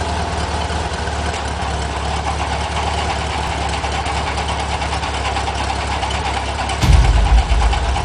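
Auto Union 1000S's two-stroke three-cylinder engine idling steadily while being tuned under the bonnet. About seven seconds in, a loud low boom cuts in for under a second.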